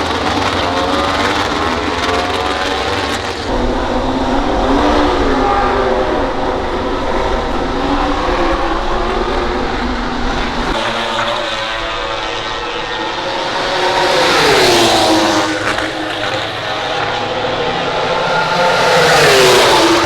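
MotoGP prototype racing motorcycles, 1000 cc four-cylinder four-stroke engines, at high revs with several bikes heard at once. Two pass close by, about fifteen seconds in and again at the end. Each grows louder, then drops in pitch as it goes past.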